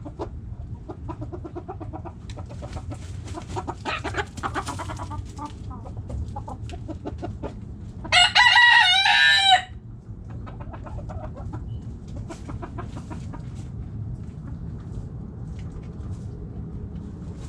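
Backyard hens clucking throughout, with a rooster crowing once, loudly, about eight seconds in for about a second and a half.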